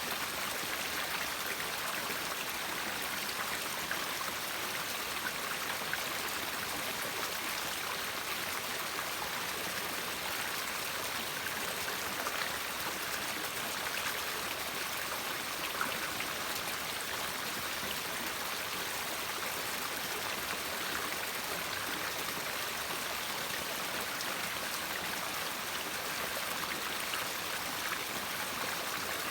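River water flowing steadily: an even, continuous rush with small splashes and drips scattered through it.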